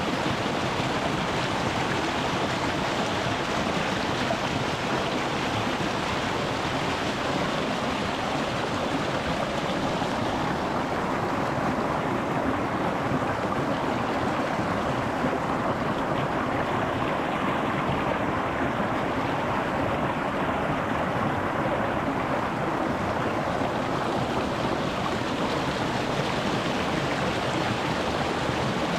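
Shallow mountain stream running over rocks: a steady rushing and babbling of water, the higher splashing easing slightly for a while in the middle.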